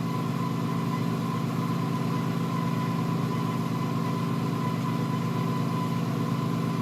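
A motor running with a steady low hum, with a faint thin whine above it.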